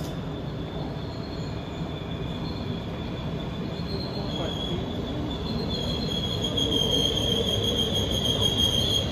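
NS Koploper (ICM) electric intercity train pulling into a station platform and slowing, with the low rumble of the train and a high, steady squeal that grows louder about halfway through and is strongest near the end as it draws alongside.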